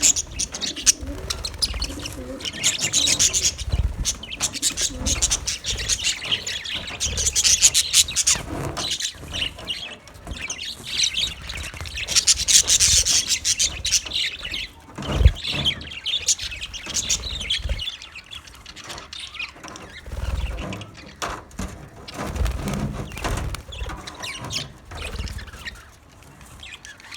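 Budgerigars chirping and chattering continuously, with rustling and occasional low thumps, one louder about halfway through.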